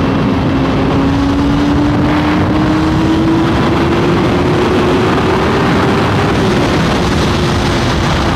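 Sportbike engine pulling under steady acceleration, its note climbing slowly for about six seconds, then easing off slightly and holding, under heavy wind noise on the rider's microphone.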